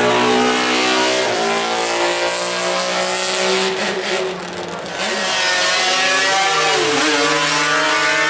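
Racing motorcycle engines at high revs accelerating hard past, the pitch climbing and then dropping at each gear change. The engine sound dips about four seconds in, then another bike comes through.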